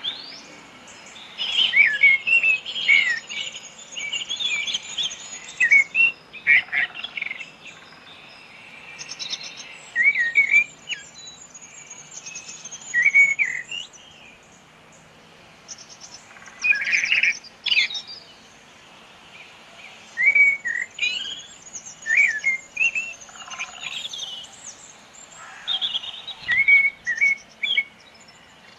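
Several small birds chirping, short calls coming in clusters every second or two, with a thin high-pitched trill running along behind at times.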